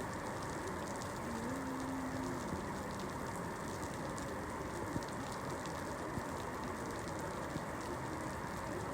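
Steady rain falling, with a few louder single drops about five, six and seven and a half seconds in. A faint low hum rises, holds and falls away about one and a half to two and a half seconds in.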